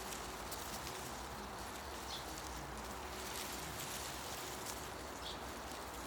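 Forest ambience: leaves rustling steadily in the wind, with two short high bird calls, one about two seconds in and one near the end.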